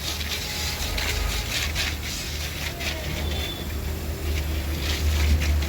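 Pressure washer running with a steady low hum that grows louder near the end, with irregular hissing bursts of water spray.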